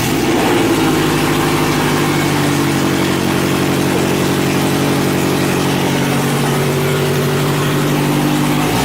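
Scion FR-S 2.0-litre flat-four boxer engine idling with its exhaust removed, running effectively straight-piped: a steady, very loud idle.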